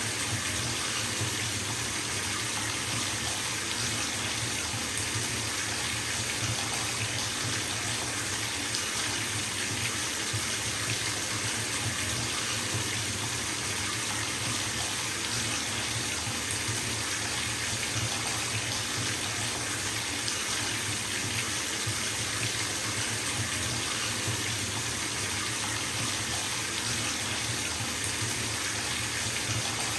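Water running from a bathtub tap into a filling tub, a steady rushing splash with no breaks.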